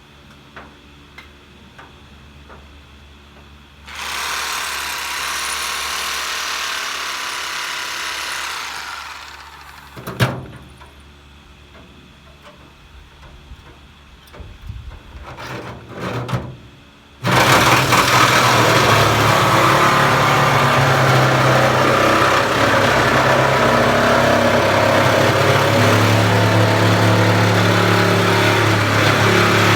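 Power tool cutting the sheet-steel bed of a Ford Ranger pickup: it runs loud for about five seconds and winds down, then a sharp knock and some clattering. About seventeen seconds in it starts again and cuts steadily.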